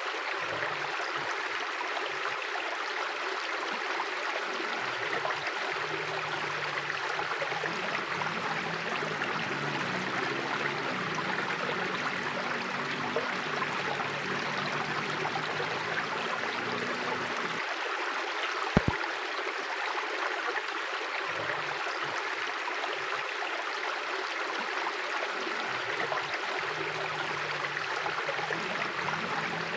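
River water flowing steadily over stones, an even rushing-and-gurgling wash. One sharp click sounds about two-thirds of the way through.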